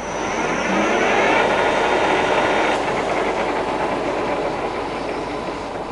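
Hafco Metalmaster CL68A lathe's spindle motor and headstock gears spinning up in low range with a rising whine, then running steadily at 120 RPM. The spindle motor is on a variable frequency drive.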